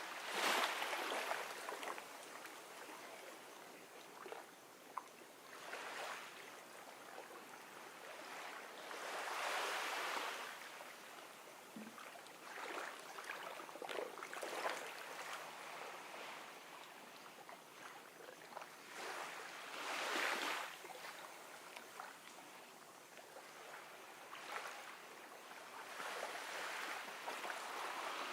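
Gentle ocean waves washing onto a shore, the surf swelling and fading every several seconds, with the biggest washes near the start, about a third of the way in and about two-thirds of the way in.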